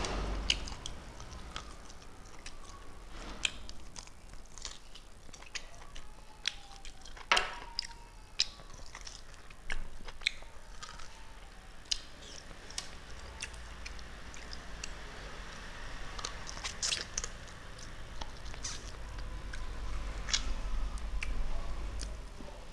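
Close-miked chewing and biting of boiled beef torn off the bone by hand, with many wet mouth clicks and smacks scattered throughout.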